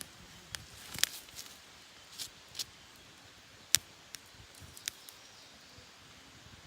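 Wood burning in a campfire, crackling with irregular sharp pops and snaps, the loudest about a second in and just under four seconds in.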